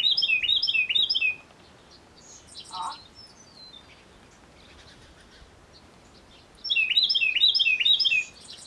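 A songbird singing: two bursts of quick, repeated high chirping notes, about five a second, one at the start and one about seven seconds in, with a brief shorter sound between them.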